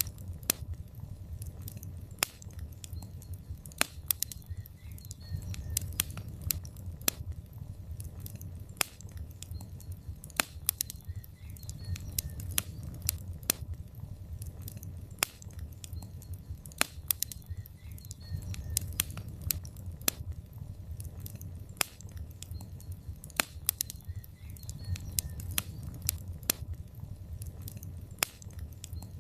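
Wood fire burning in a fireplace: logs crackling with many irregular sharp pops and snaps, several a second, over a low steady rumble of flame.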